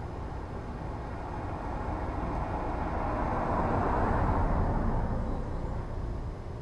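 A vehicle passing by, its noise swelling over a few seconds and fading again, over a low steady rumble.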